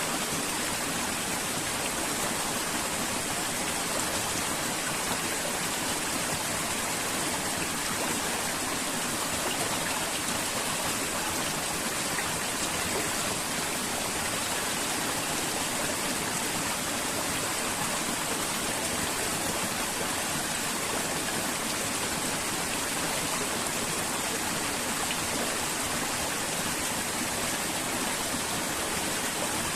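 River water flowing in a steady, unchanging rush.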